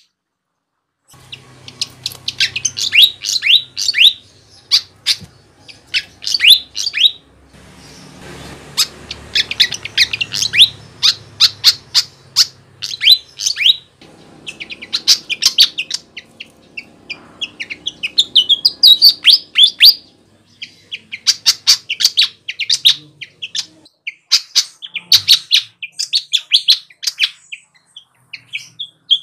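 Sikatan (flycatcher) singing a loud, rapid, chattering song: dense runs of quick high chirps in phrases a few seconds long, broken by brief silent gaps.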